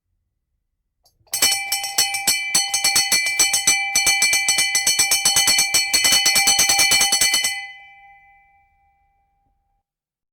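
Electric bell ringing: a clapper strikes the gong rapidly, about ten times a second, for about six seconds, then stops and the bell rings out.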